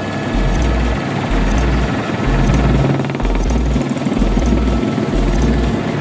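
Helicopter running, a loud steady drone of engine and rotor with a low throb that repeats about once a second.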